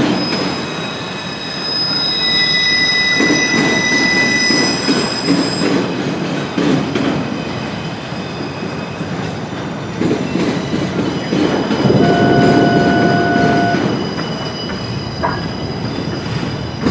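Train cars rolling past with a steady rumble and clatter of wheels on rail. High-pitched wheel squeal rings out in the first few seconds, and a lower squeal tone sounds briefly about twelve seconds in.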